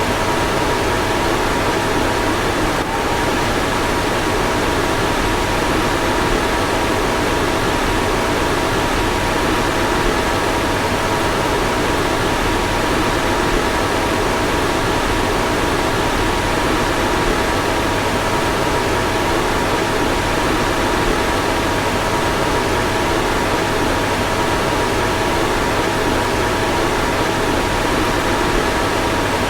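Car fan running steadily: an even rushing of air with a faint steady hum of two tones.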